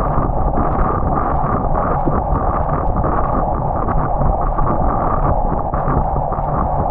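Steady wind rush on a bike-mounted camera's external microphone as a road bike is ridden along, mixed with road noise.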